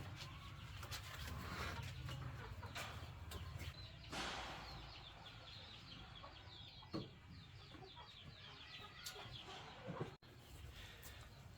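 Chickens clucking faintly, with a run of quick high cheeps in the middle and a brief dropout a little after ten seconds.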